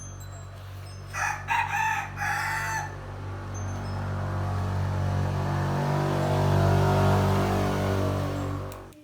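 A rooster crows once, starting about a second in and lasting nearly two seconds, over a steady low hum. The hum grows louder and then cuts off suddenly near the end.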